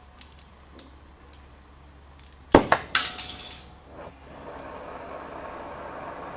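Light metallic clinks, then about two and a half seconds in a loud metal clank followed by two more ringing clangs, as sheet-metal exhaust parts are handled. After that a steady rushing noise sets in.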